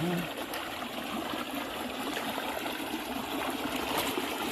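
Water running and trickling steadily, a flow of storm runoff.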